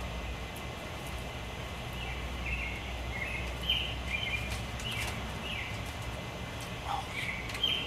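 Birds chirping, short high notes repeated irregularly, over a steady low rumble of background noise.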